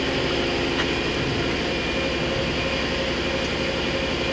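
Hyundai-Kia HS400 horizontal machining center running, giving a steady mechanical hum with several held tones and a faint click about a second in.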